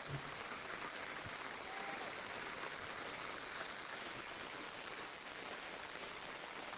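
Steady rain falling: an even, soft hiss.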